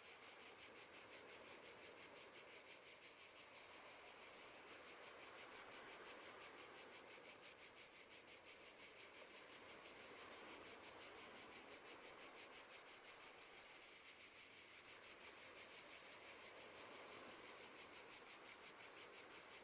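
Crickets chirping steadily and faintly, a rapid, even pulse of high chirps that never lets up.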